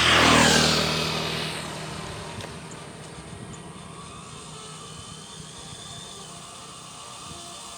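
A vehicle passing close by: a loud rush of noise that drops in pitch and fades over about two seconds, leaving steady background noise.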